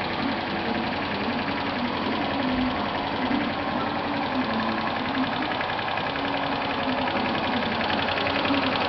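125 cc moped engine running steadily at an even pace, with a fast, regular firing pulse. It is being fed HHO (oxyhydrogen) gas with its intake air.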